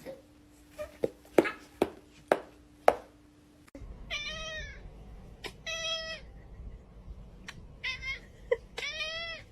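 A cat meowing four times, each meow a short arched call. Before the meows comes a run of about six sharp taps or knocks.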